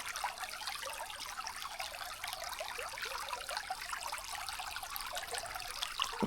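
Small creek trickling and burbling over shallows, with one short knock near the end.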